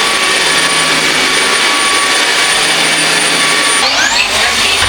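UWANT D100 cordless wet/dry vacuum mop running steadily as it is pushed over the floor, a constant motor whine over a loud rush of suction. Near the end the motor whine rises quickly in pitch and then holds.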